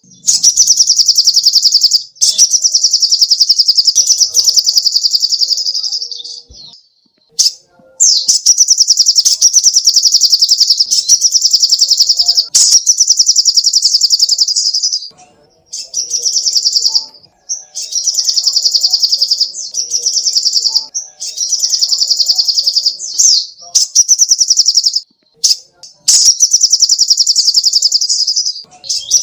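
A sogoh ontong bird singing: long, high, very rapid trills of two to four seconds each, repeated over and over with brief pauses between them.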